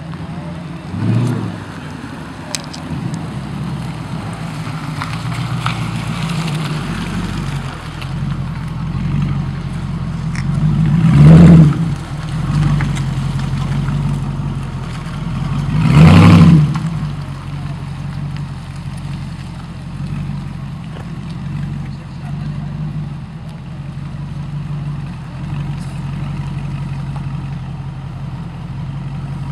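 Dodge Challenger's engine running at idle with a steady low rumble, revved hard twice, about eleven and sixteen seconds in, each rev rising and falling quickly, with a shorter blip about a second in.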